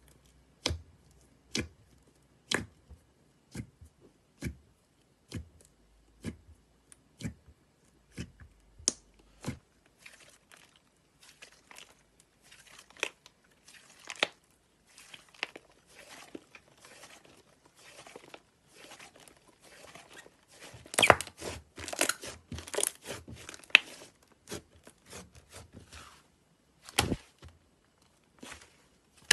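Slime being worked by hand: separate sticky clicks and pops about one or two a second, turning about a third of the way in into denser crackling that is loudest a little past two-thirds of the way through, with one sharp pop near the end.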